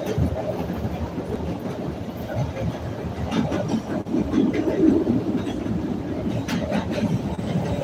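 CTA Red Line rapid-transit train running on elevated track, heard from inside the car: a steady rumble of wheels on rail, with sharp clacks over rail joints about three seconds in and again near the end.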